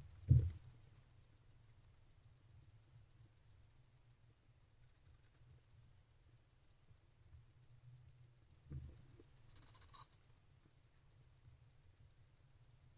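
Barn owls shuffling and scratching about the nest box floor. There is a dull thump just after the start and another about nine seconds in, followed by a brief high hiss.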